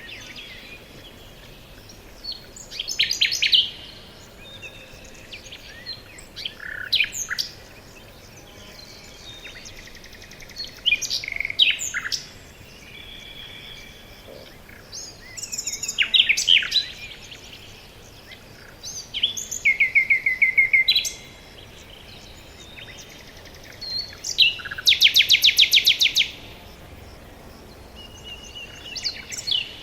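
Wild songbirds singing: short phrases of chirps, whistles and trills come every four to five seconds over a faint background hiss, with a fast, loud trill near the end.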